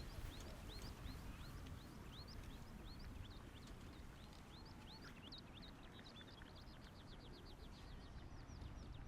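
Faint small bird singing a long run of quick rising chirps, breaking into a faster run of short notes about two-thirds of the way through, over a low steady outdoor rumble.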